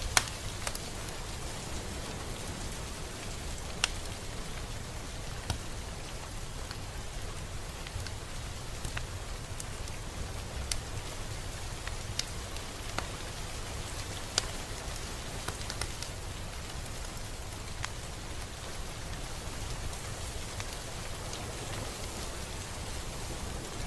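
Steady rain falling, an even hiss with a low rumble underneath and scattered louder drops ticking on a hard surface, the sharpest right at the start and about 4 and 14 seconds in.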